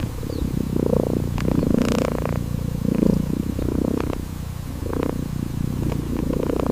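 A cat purring steadily, the purr swelling and fading about once a second with each breath.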